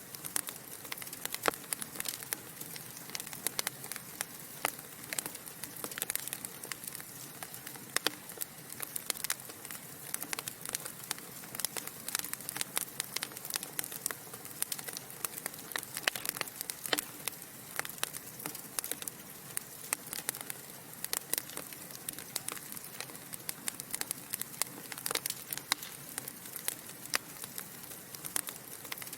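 Logs burning in a fireplace, crackling: many irregular sharp pops and snaps over a steady soft hiss.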